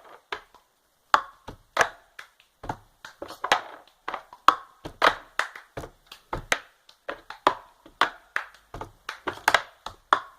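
The cup-game rhythm played with two cups: cups knocked and slapped down on a table, mixed with hand claps, in a quick patterned beat of about two to three hits a second.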